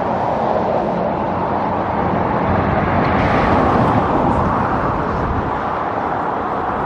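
Road traffic going by, with one vehicle passing that is loudest a few seconds in.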